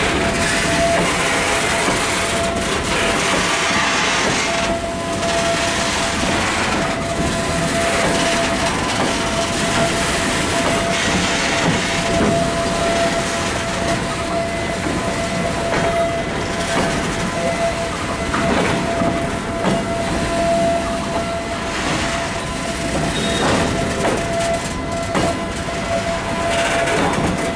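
Indian diesel locomotive hauling a goods train, running slowly with wheels clicking over the rail joints and a steady whine over the rumble.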